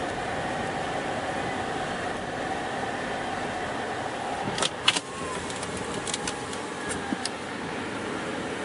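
Car on the move: a steady engine and road hum, with a pair of sharp clicks about halfway through and a few lighter ticks after them.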